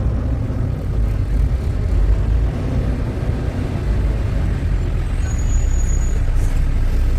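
Steady low rumble of a semi-truck's engine and road noise, heard from inside the cab while driving on the highway.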